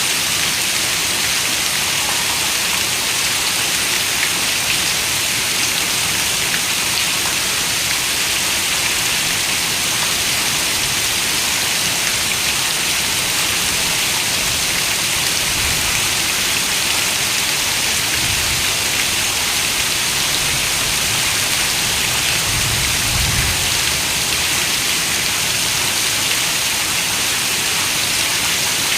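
Steady rain falling: an even, unbroken bright hiss. A faint low rumble swells briefly a little past the middle.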